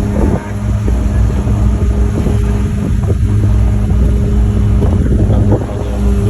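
Fishing boat's engine running with a steady low hum, with scattered knocks and clatter on deck.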